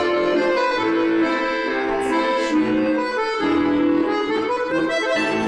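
An accordion playing a tune in held chords and melody notes that change every fraction of a second, as live accompaniment for a folk-dance class.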